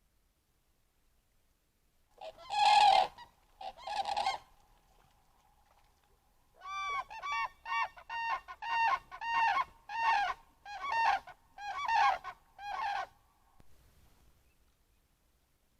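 Large waterbirds calling at a pond, either common cranes or geese. Two long, loud calls come about two seconds in, followed by a run of about a dozen shorter calls, roughly two a second, lasting some six seconds.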